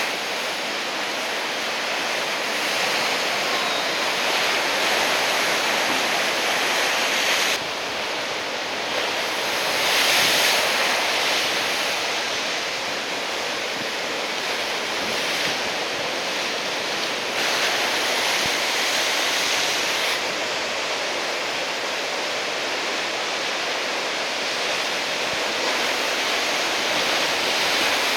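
Heavy surf from a typhoon swell, big waves breaking in a continuous roar of white water. It swells louder about ten seconds in, and its tone shifts abruptly several times.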